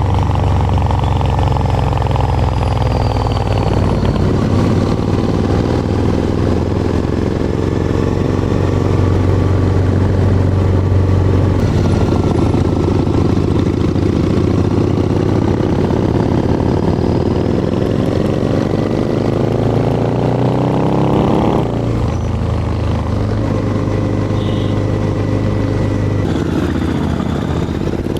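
Harley-Davidson motorcycle engine running under way, its note climbing steadily as the bike accelerates and then dropping sharply a little past twenty seconds in at a gear change.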